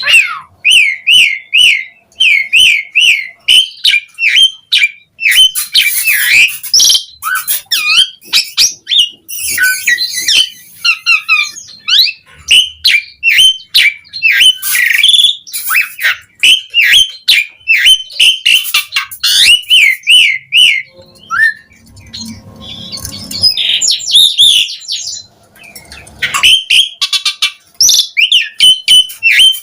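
Asian pied starling (jalak suren) singing: fast runs of repeated whistled notes, several a second, broken by harsh, scratchy squawks, with a brief lull about two-thirds of the way through.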